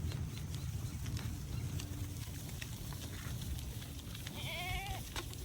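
A goat bleats once, a high, wavering call about four and a half seconds in, over a steady low rumble.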